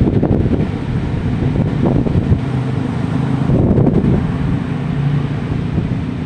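Sea waves washing ashore, with strong wind buffeting the microphone in a heavy low rumble.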